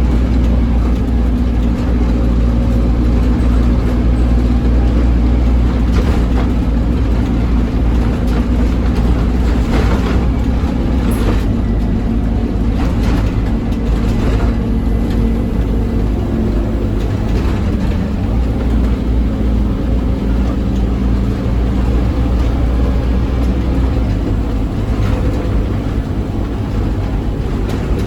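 Scania OmniCity double-deck bus's diesel engine running hard under full throttle, with a few short rattles around the middle. The engine note shifts once about two-thirds of the way through.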